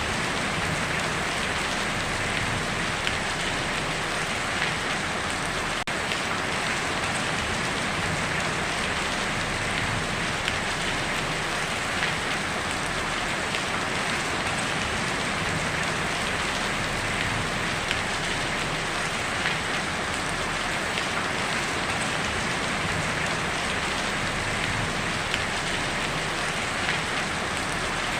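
Heavy rain falling steadily on a tin roof, a dense even patter with scattered sharper drop ticks.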